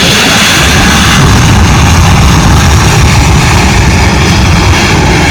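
Aircraft engines running loud and steady at close range, a dense rumble with a hissing roar on top.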